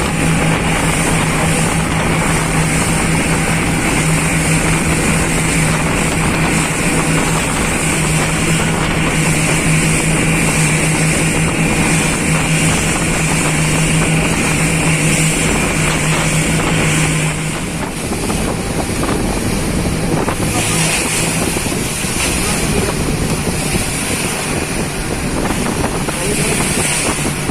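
Motorboat engine running steadily over a constant rushing noise. About two-thirds of the way through, the engine's low hum drops away and the rushing carries on.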